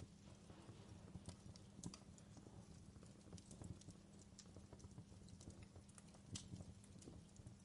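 Fireplace crackling: faint, irregular pops and snaps over a low steady rumble, with one sharper snap about six seconds in.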